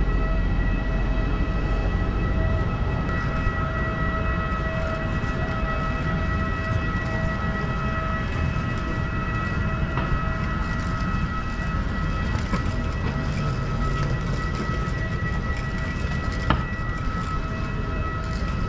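Steady whine of a jet airliner, several held tones over a low rumble. The highest tone drops away about twelve seconds in, and there are a couple of faint clicks.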